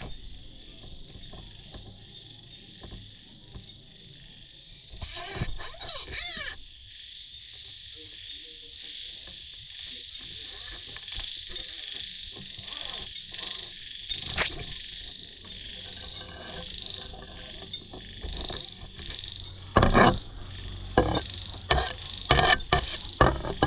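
Night chorus of frogs and insects: a steady high-pitched trill that runs on throughout. A few loud, sharp sounds break in near the end.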